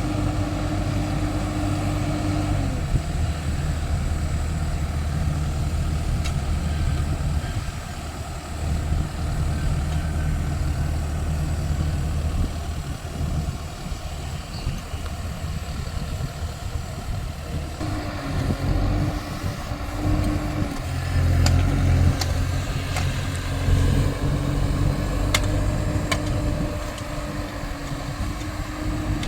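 Caterpillar excavator's diesel engine running, its note shifting several times as the load changes. A few sharp clicks come in near the end.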